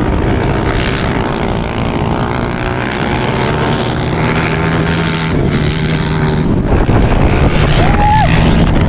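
An off-road vehicle's engine droning steadily, getting a little louder about halfway through, with wind buffeting the microphone.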